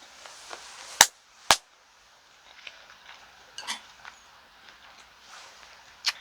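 Utensils clicking and clinking against dishes during a meal. Two sharp clicks about a second in are the loudest, followed by softer, scattered clinks.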